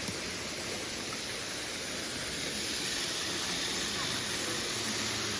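Waterfall rushing: a steady even roar of falling water, growing slightly louder about halfway through.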